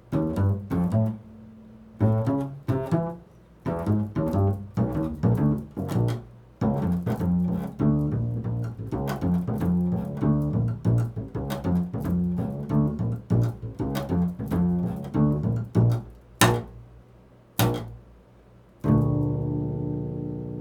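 Improvised solo music on a low plucked string instrument, a run of quick notes with a couple of sharp clicks, then one low note struck near the end and left ringing.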